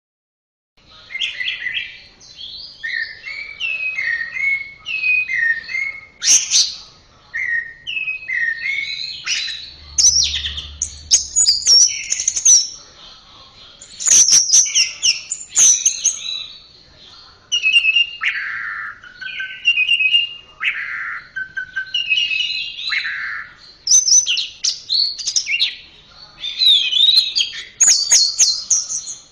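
Orange-headed thrush singing: a long, varied run of rapid whistled phrases, slurred notes and falling sweeps with brief pauses between phrases, starting about a second in after a short silence.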